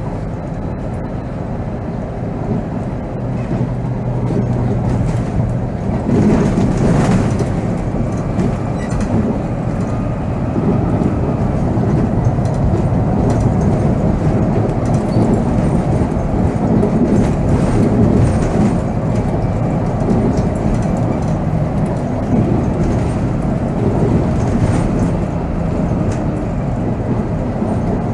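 Volvo B7R coach under way, heard from the driver's seat: a steady diesel engine drone and road noise. The drone gets louder about six seconds in and stays up.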